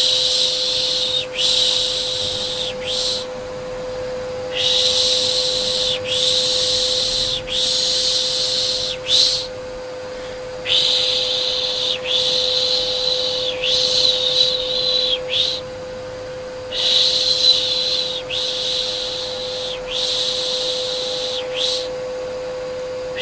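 Soothing 'piş piş' shushing for a baby: long hissing 'shh' strokes of about a second and a half each, in runs of three or four with a pause after each run. Under it runs the steady hum of a vacuum cleaner.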